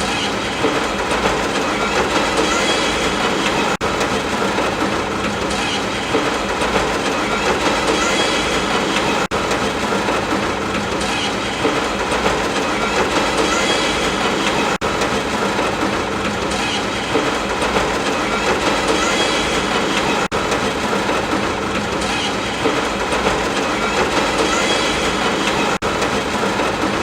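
Steady, dense hiss of a rain-sound track. It is a short recording looped about every five and a half seconds, each repeat marked by a brief dip.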